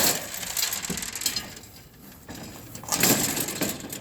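Metal clanking and scraping as an aluminum truck toolbox is pried and wrenched loose from a pickup bed, with a louder burst of scraping about three seconds in.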